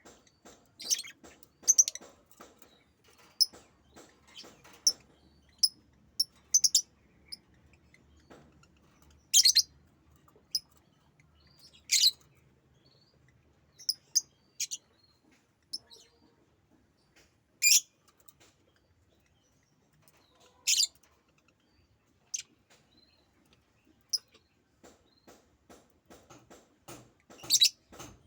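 Pet bird chirping: a dozen or so short, sharp, high chirps at irregular intervals, with faint light clicks between them.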